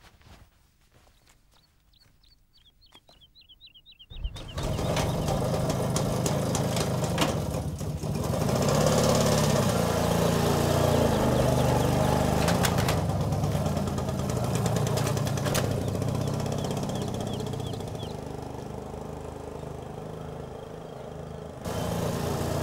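Faint bird chirps, then about four seconds in a car engine cuts in loudly and runs, its pitch rising and falling.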